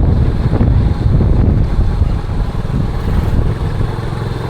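Wind buffeting the microphone on a moving motorcycle, a steady low rumble with the vehicle's running noise underneath.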